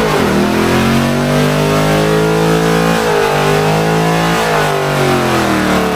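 Car engine held at high revs during a burnout, its pitch rising and falling a little as the throttle is worked.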